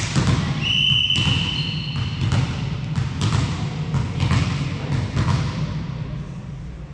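A sharp hit, then a short steady whistle blast about half a second in, followed by a volleyball bouncing on the sports-hall floor, a knock every second or so, over a low hall rumble.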